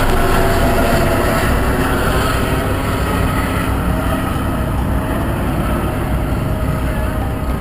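Motorcycle engines running in a motocross pit area: a steady wash of engine noise, with one engine's pitch easing down over the first few seconds.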